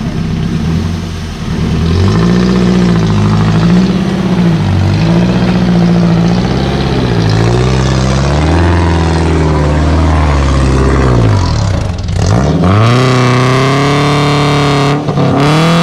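Off-road buggy engine revving hard and repeatedly, the revs climbing and falling over and over as the wheels spin in deep mud. It drops briefly about twelve seconds in, then revs up again.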